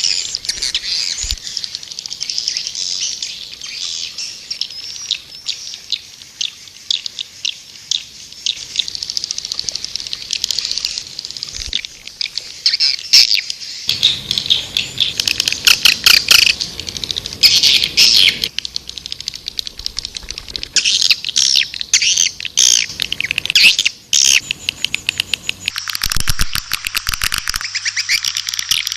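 White-nest swiftlets twittering in a dense, continuous chatter of rapid high chirps: a swiftlet calling recording of the kind played to lure the birds into a swiftlet house. About three seconds before the end the chatter turns denser and buzzier over a faint low hum.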